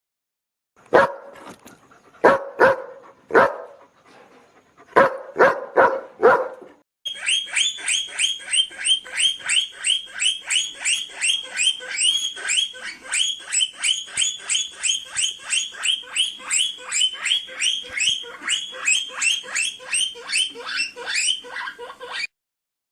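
Animal calls: first about seven short, pitched bark-like calls in two groups, then a long run of quick, high rising chirps repeated about four times a second.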